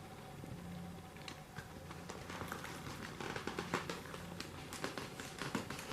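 A cat eating a treat: quick, irregular small clicks of chewing and licking that grow busier after about two seconds, over a faint low hum.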